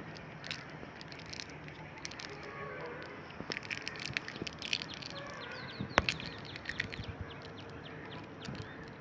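Small birds chirping and twittering, with many short, quick high calls scattered throughout. A sharp click sounds about six seconds in.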